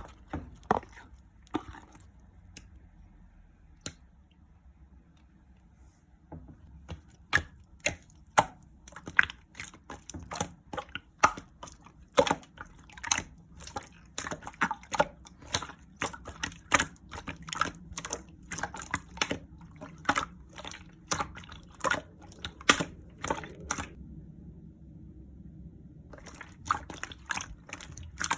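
Clear slime being squeezed and pressed by hand, making wet clicks and pops. There are a few scattered pops at first, then two or three a second, broken by a short pause near the end.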